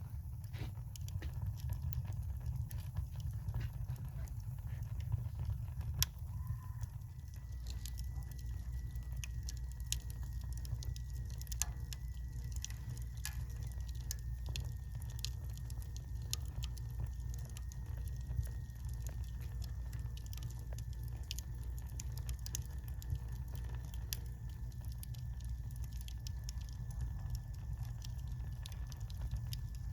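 Wood fire burning in a wood-burning stove: irregular small crackles and pops over a steady low rumble.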